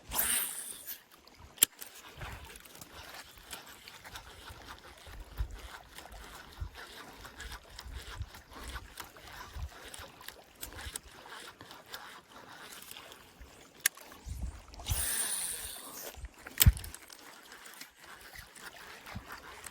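Water sloshing and gurgling at the water's edge, with scattered sharp knocks and clicks from handling fishing gear. Two short hissing rushes stand out, one just after the start and one about three quarters of the way through, with the loudest knock just after the second.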